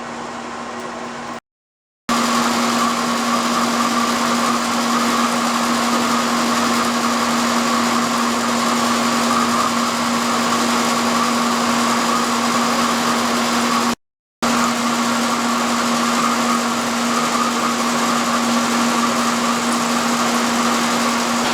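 Kearney & Trecker milling machine running steadily, a constant hum with a whine over a broad machining noise. It cuts out briefly twice.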